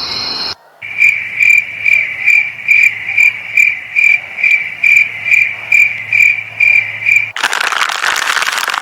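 Crickets chirping in an even pulse, about two and a half chirps a second, over a faint low hum. The chirping stops suddenly about seven seconds in, and a loud rushing noise with no pitch follows.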